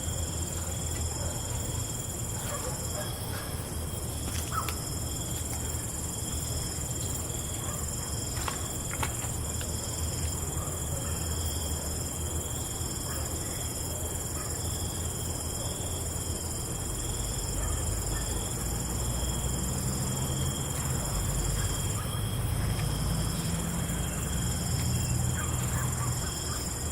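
Night insects, crickets, trilling steadily at several high pitches over a low rumble that swells in the second half.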